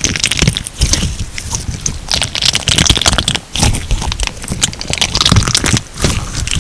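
Crunchy slime being squeezed and kneaded by hand, giving a dense run of crackles and pops, with brief let-ups about halfway and near the end.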